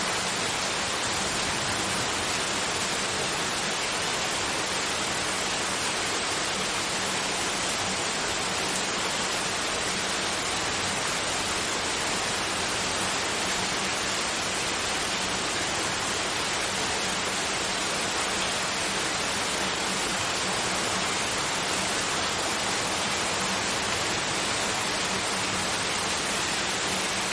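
Steady, unchanging synthetic noise of the white or pink kind, an even hiss like rain, with a faint steady hum underneath.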